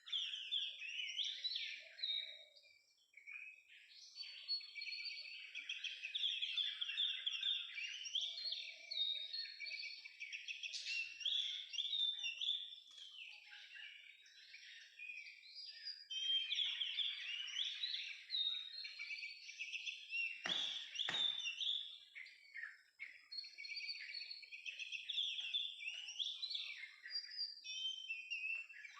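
Oriental magpie-robin song: a near-continuous, varied stream of whistles and chattering phrases. Two sharp clicks come close together about two-thirds of the way through.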